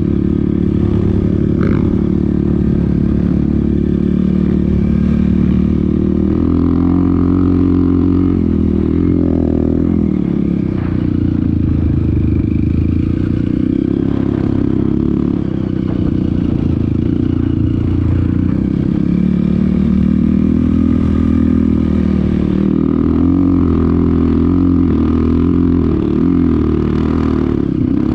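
Off-road vehicle engine running continuously under way, its pitch rising and falling several times as the throttle is opened and eased.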